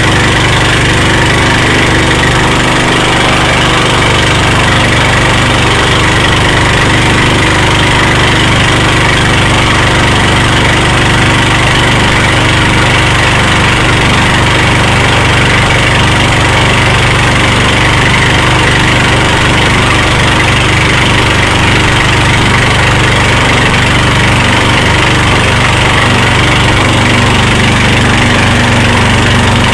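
Motorboat engine running steadily at constant speed, with a loud even hum.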